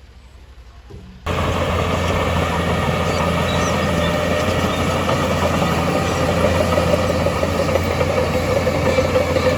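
Heavy earthmoving machinery's diesel engine running steadily, cutting in abruptly a little over a second in after a quieter stretch.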